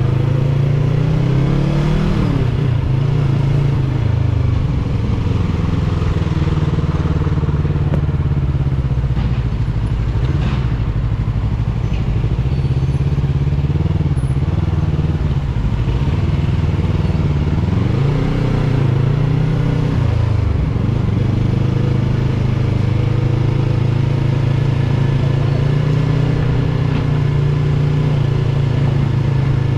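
Yamaha R3's parallel-twin engine running as the motorcycle rides along, its pitch rising and falling with the throttle about two seconds in and again for a few seconds past the middle, steady otherwise.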